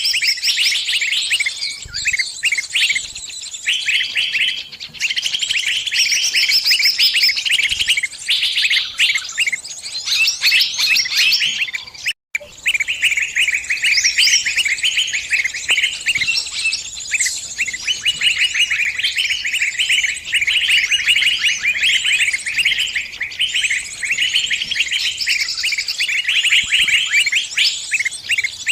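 Small birds chirping rapidly and without pause in high, busy bursts: the distress calls of a trapped bird crying for help, as used for lure recordings. There is a brief gap about twelve seconds in.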